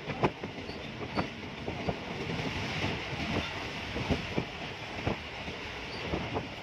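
Passenger train coach running along the track at speed: a steady rushing rumble with frequent irregular clicks and knocks from the wheels on the rails, heard from inside the coach.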